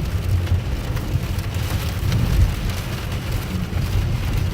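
Rain beating on a car, heard from inside the cabin, with a steady low rumble underneath.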